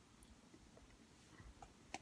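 Near silence, with a few faint, soft clicks of gum being chewed in the mouth in the second half.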